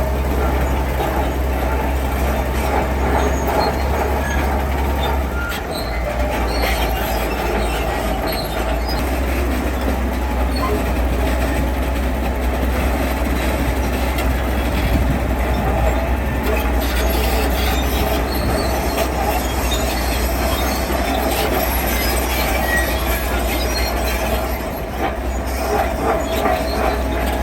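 Heavy earthmoving machinery running steadily: a deep engine drone with metallic squealing and clatter over it.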